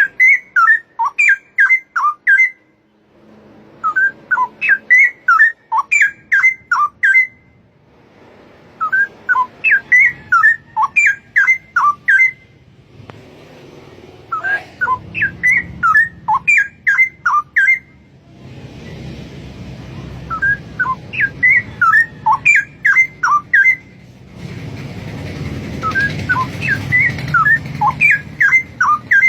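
Straw-headed bulbul singing: six loud phrases of rapid, liquid gliding whistles, each about two and a half seconds long, repeated every four to five seconds. A low rumble of background noise builds up under the song over the last ten seconds.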